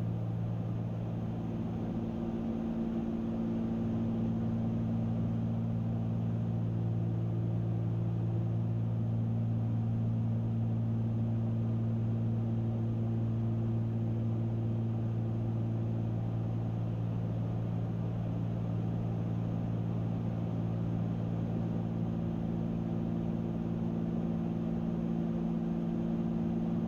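Cessna 310Q twin-engine piston plane in cruise flight: its two engines and propellers make a steady drone with several low, even hums over a rushing background, unchanging throughout.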